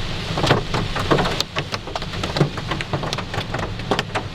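Hail striking a car's roof and windshield, heard from inside the cabin as a dense, irregular patter of sharp ticks over a low road rumble; the hail sounds a little softer.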